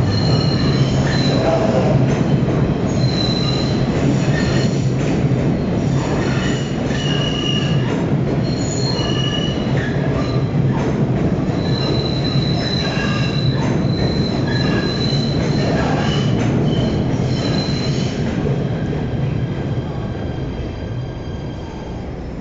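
PATH subway train running on the rails with a steady rumble, its wheels squealing in high tones that come and go, with occasional clicks. The sound eases off over the last few seconds.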